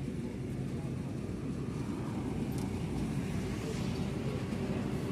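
A farm machine's engine running steadily with a low, even drone.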